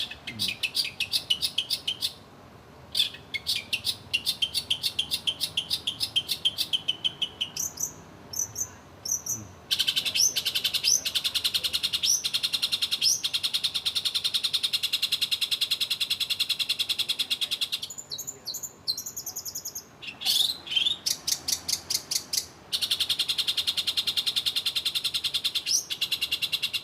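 Long-tailed shrike (cendet) singing: long runs of rapid, chattering high notes, many to the second, broken by a few short pauses and mixed with sharp rising whistled notes.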